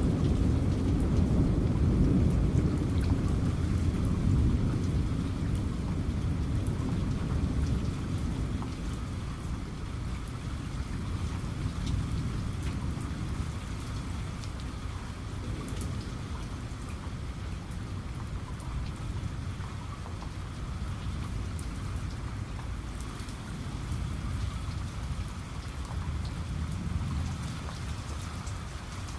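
Steady heavy rain with scattered drop ticks, under a low rumble of thunder that dies away over the first several seconds.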